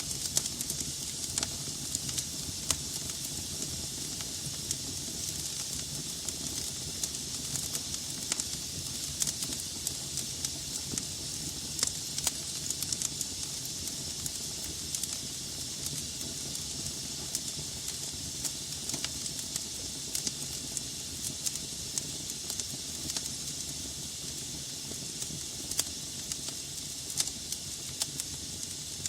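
Wood fire burning in a fireplace: a steady hiss of flames with frequent sharp, irregular crackles and pops from the burning logs.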